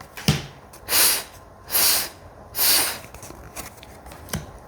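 A person voicing the phonics sound for the letter F: three breathy 'fff' hisses, each under a second long and about a second apart, with no vowel after them.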